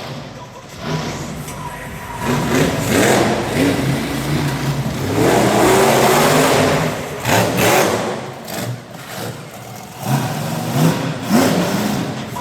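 Monster truck engine revving hard, its pitch climbing and dropping again and again, with stretches of loud rushing noise between the revs.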